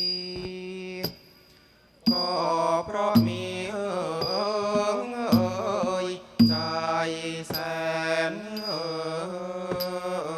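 Thai classical music: sustained, gliding melody lines with small cymbal strokes at regular spacing keeping time. It breaks off about a second in and resumes about two seconds in.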